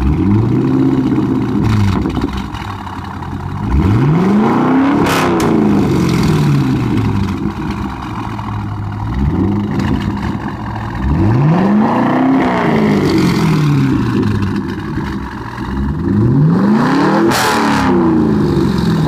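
Chevrolet C5 Corvette V8 with its mufflers cut out, revved up and let fall back to idle about five times, three of them big revs, with a loud open-exhaust note throughout.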